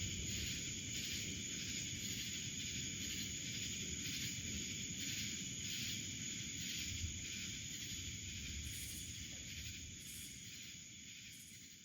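Outdoor nature ambience: a steady high chorus of calling animals, pulsing about twice a second, over a low rumble. It fades down over the last few seconds.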